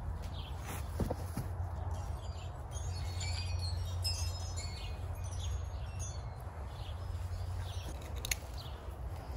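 Birds chirping in many short high calls over a steady low rumble, with a couple of small clicks.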